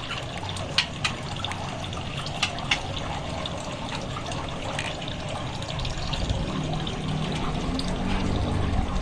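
Steady rush of running or trickling water, with a few short sharp clicks near one, two and a half, and five seconds in, and a low hum growing louder in the second half.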